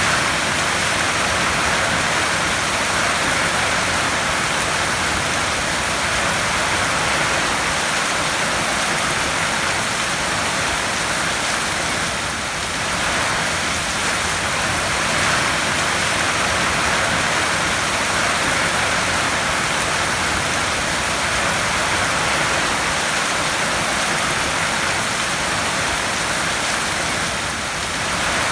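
Heavy rain falling on a tin roof: a dense, steady hiss that eases slightly twice, about halfway through and near the end.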